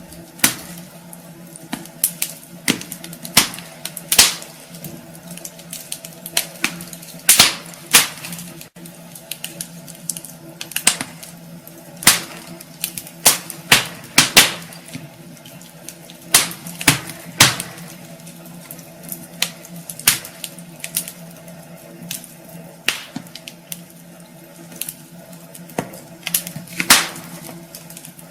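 Wood fire crackling in a fireplace: irregular sharp pops and snaps, a few louder ones standing out, over a steady low hum.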